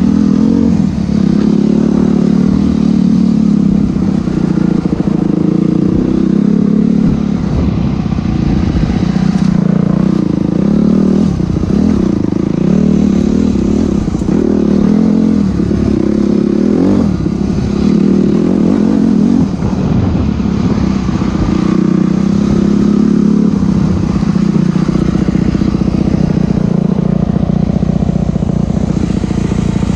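Enduro dirt bike engine running under load on a trail, its pitch rising and falling every second or two as the throttle is opened and closed.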